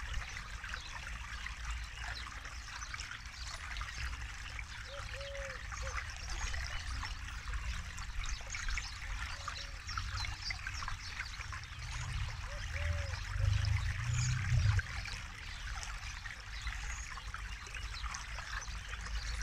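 Forest river flowing steadily, a continuous rushing and trickling of water, with a low rumble swelling briefly about two-thirds of the way through. A short low call sounds a few times over the water.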